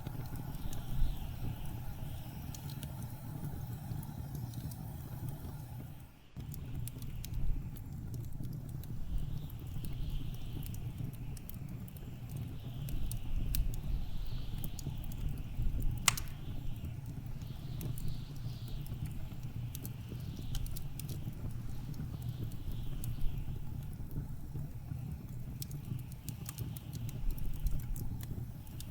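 Wood fire crackling with scattered sharp pops, the loudest about halfway through, over a steady low rumble and blizzard wind gusting in soft swells every few seconds. The sound dips briefly about six seconds in.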